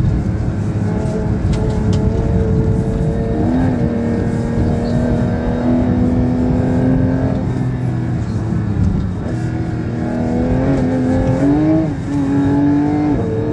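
Porsche 911 GT3 (992) naturally aspirated flat-six, on its stock exhaust, pulling the car uphill, heard from inside the cabin. Its pitch holds steady, steps up about three and a half seconds in, climbs again near the end and drops briefly as a gear changes.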